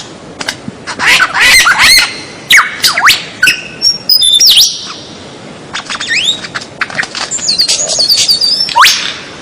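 A songbird singing a fast, varied song of sharp whistles that sweep up and down, mixed with harsh squawking notes. There is a short pause about halfway through, and a long rising whistle near the end.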